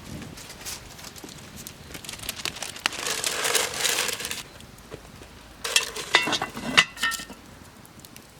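Crackling, scraping noise, then a quick run of sharp metallic clinks with a brief ring, as charcoal embers and a cast-iron Dutch oven are handled during baking.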